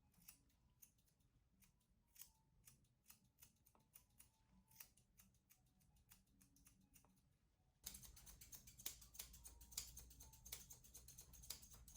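Faint, irregular snipping of grooming scissors trimming a poodle's coat. About eight seconds in, the background hiss rises and the snips become louder.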